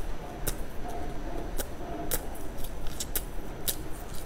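Close-miked chewing of a mouthful of soft brown cake, with a series of sharp, irregular mouth clicks and smacks.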